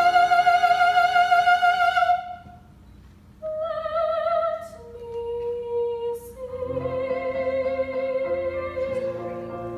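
A female singer in a classical, operatic style holds a long high note with vibrato, then after a short pause sings a shorter note, and a piano accompaniment plays sustained closing chords.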